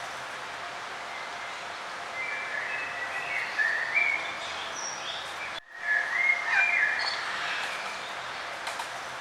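Songbirds singing in two bursts of chirping phrases over a steady outdoor background hiss. The sound drops out for an instant a little past halfway, like an edit splice.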